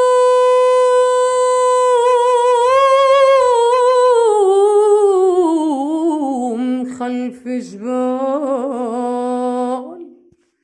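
A solo voice singing unaccompanied in Arabic style. It holds one long high note, then slides down in a wavering, ornamented run to a lower held note that fades out near the end.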